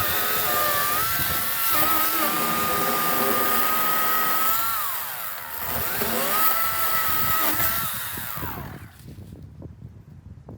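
EGO 56-volt battery chainsaw's electric motor running with a steady high whine. It slows and speeds up again about halfway, then winds down near the end, leaving only faint knocks.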